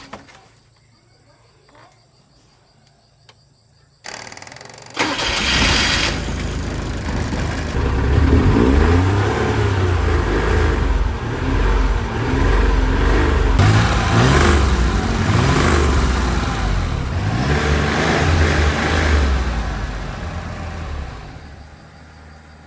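A Daewoo car's engine is cranked and starts about four seconds in, then revs up and down repeatedly, and drops back toward idle near the end.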